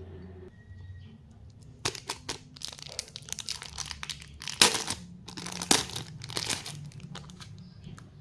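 Plastic lollipop wrapping crinkling and tearing in a quick run of sharp crackles, loudest a little after the middle.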